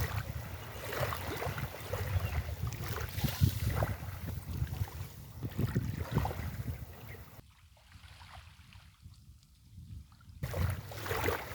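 Sea waves washing and splashing on a beach, with wind rumbling on the microphone. The wash dies down about seven seconds in, then another wave surges in near the end.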